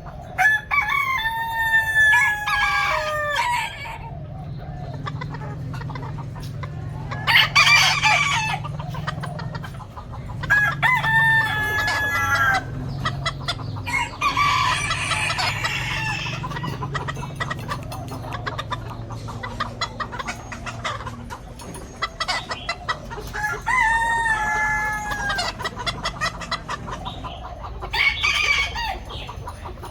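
Roosters crowing: three long crows about ten seconds apart, with shorter loud squawks and clucks from the chickens between them. A steady low hum runs underneath.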